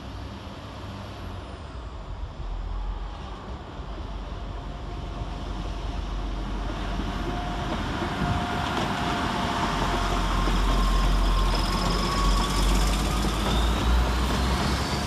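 Diesel multiple unit pulling away from the platform, its engine and running noise building steadily and loudest in the second half, with a held tone and a whine rising in pitch near the end.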